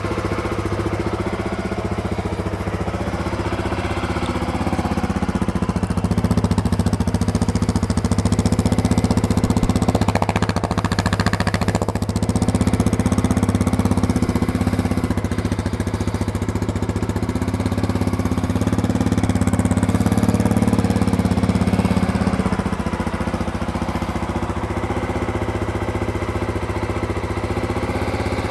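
2020 Honda CRF250F's 250cc air-cooled single-cylinder four-stroke engine idling steadily through its stock exhaust, still warming up after a cold start.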